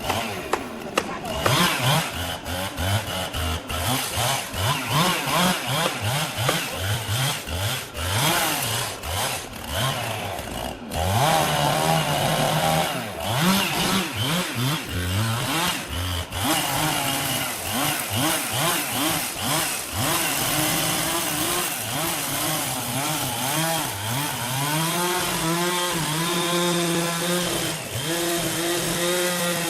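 Chainsaw running: its engine is revved up and down in short repeated bursts for the first several seconds, then held at high speed for longer stretches as it cuts, the pitch sagging and recovering under load.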